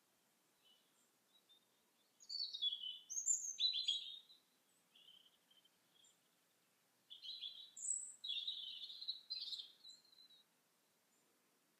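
A songbird singing two phrases of quick, high song, each about two to three seconds long: one about two seconds in, the other about seven seconds in, with a few faint notes between them.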